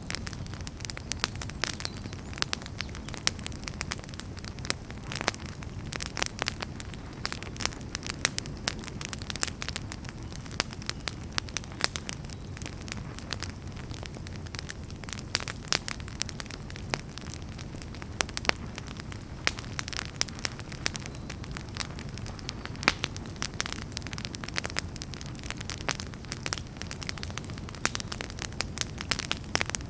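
Wood fire burning: a steady low rumble of flame with frequent sharp, irregular crackles and pops from the burning firewood.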